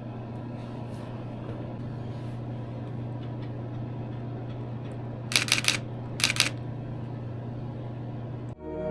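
Nikon D7000 DSLR shutter firing in two short bursts of rapid clicks, continuous shooting, each about half a second long and a second apart, over a steady low hum.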